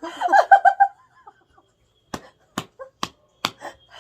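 A woman laughing in short, rapid, high-pitched bursts, then four sharp smacks about half a second apart.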